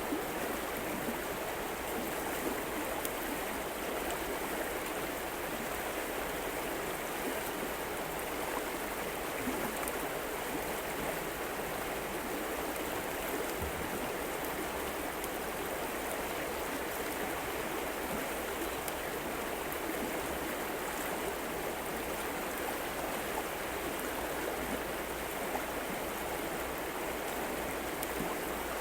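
River water flowing steadily, an even, unbroken noise.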